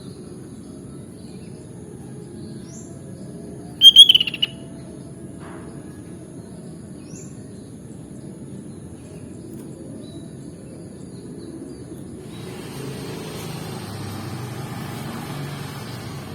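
Sooty-headed bulbul (kutilang) giving one short, loud burst of rapid chirping notes about four seconds in, with faint short high chirps now and then. A steady background hiss runs underneath and gets a little louder in the last few seconds.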